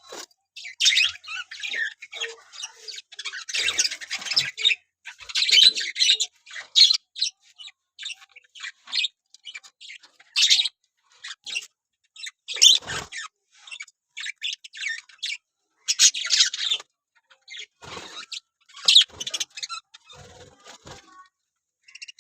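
Budgerigars chattering and warbling in repeated bursts of rapid, high chirps, with short pauses between bursts.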